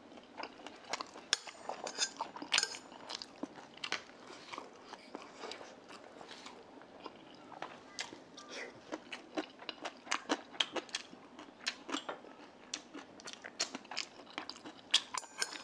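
Close-up eating sounds: a man chewing, with many irregular small wet clicks and smacks of the mouth throughout, and a few light taps of chopsticks on the dishes.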